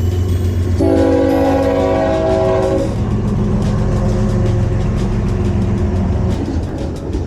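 A train rumbling past on the tracks. About a second in, its horn sounds one chord-like blast of several tones for about two seconds.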